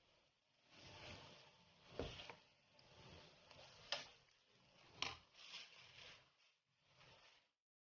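Faint stirring of steamed glutinous rice in coconut milk in a pot, soft swishing strokes with sharp knocks of the spoon or spatula against the pot about two, four and five seconds in.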